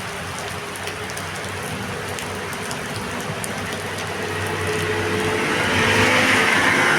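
Steady heavy rain, with a motor vehicle going by on the wet road: it grows louder from about four seconds in and is loudest near the end.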